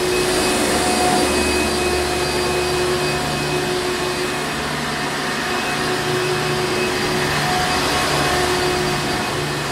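Hoover Encore Supreme upright vacuum cleaner running steadily: a constant rush of air with a steady motor whine and a low hum that swells and fades a little.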